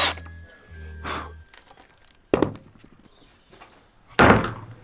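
Two sharp wooden thunks, the second louder, as timber rafters of a canopy frame are knocked or set into place. Before them comes a brief whir of a power drill driving a screw.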